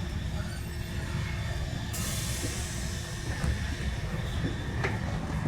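Train on the move: a steady low rumble, with a sudden hiss about two seconds in that fades away.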